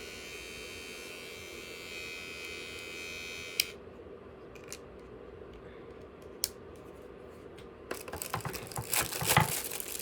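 Cordless Limural T-liner trimmer running with a steady electric buzz, switched off with a click about three and a half seconds in. A few light clicks follow, then rustling and crinkling near the end.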